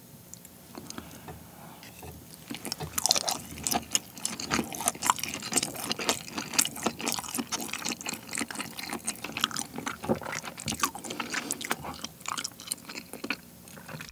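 Close-miked chewing of a thick piece of olive flounder (광어) nigiri sushi: many small sharp mouth clicks, starting about two seconds in after a quiet beginning.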